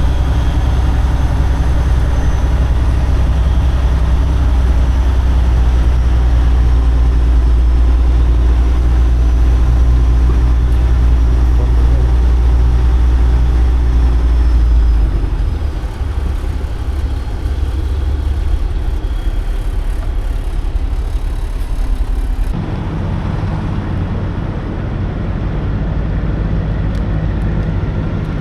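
Semi truck running down the road: a steady low engine and road drone. The drone shifts about halfway through, and the sound changes abruptly near the end as the high hiss drops away.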